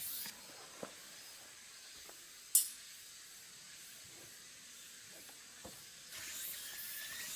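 A steady hiss that drops away just after the start and comes back about six seconds in, with a sharp click about two and a half seconds in and a few faint ticks.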